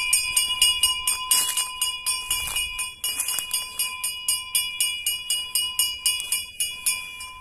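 Small metal bells jingling in an even rhythm, about five strikes a second, growing fainter toward the end.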